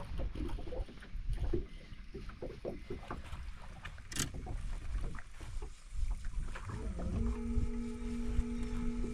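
Scattered knocks and handling clatter on a fishing boat over a low rumble. About seven seconds in, a steady hum starts and holds.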